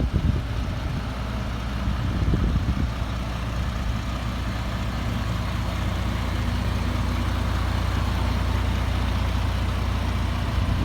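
Isuzu 7.8-litre turbo diesel of a GMC C6500 box truck idling steadily with a low, even hum, with a few knocks in the first three seconds.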